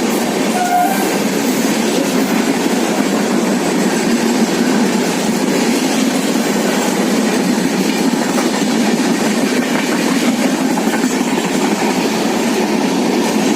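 Train passing close by at speed: a loud, steady rush and rattle of wheels on rails and carriages going by.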